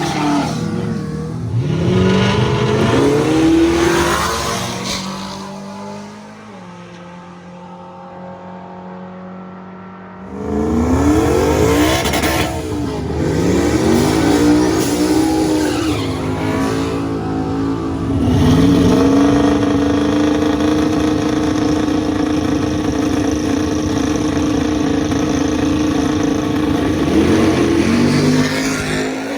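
Drag race cars accelerating hard, with engine pitch climbing in repeated sweeps as they run through the gears. It goes quieter for a few seconds, comes back loud suddenly about a third of the way in, and ends with a long steady high engine note.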